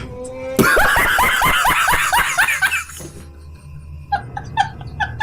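A high-pitched laugh: a loud run of quick, repeated bursts, each rising in pitch, lasting about two and a half seconds, followed by a quieter string of short, evenly spaced squeaks.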